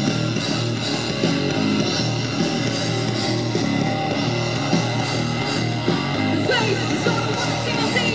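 Rock band playing live and loud, driven by electric guitar, with no sung words in this stretch.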